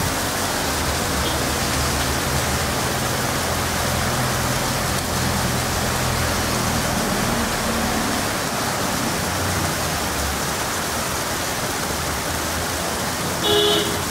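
Heavy rain pouring steadily on a road, with the low hum of passing vehicle engines and tyres on wet tarmac. Near the end a vehicle horn sounds twice, briefly.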